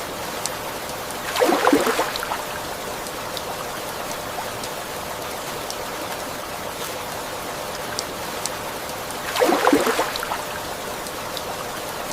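Steady rain and flowing floodwater, with two louder splashes of water about eight seconds apart.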